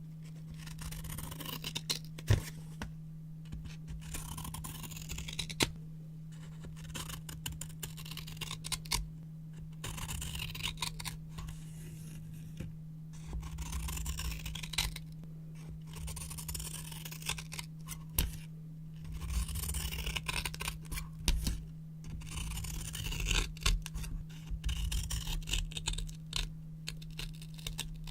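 Scissors cutting brown paper in a run of repeated passes, crisp crackling rustle with sharp clicks of the blades, over a steady low hum.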